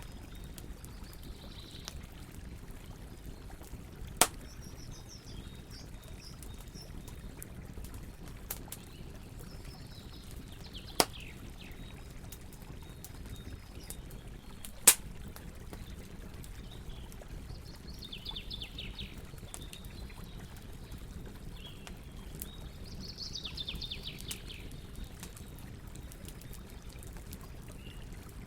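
Wood fire crackling with fine scattered ticks and three sharp loud pops, about 4, 11 and 15 seconds in, over a steady rush of flowing water. Small birds chirp in short descending trills now and then, most strongly near the end.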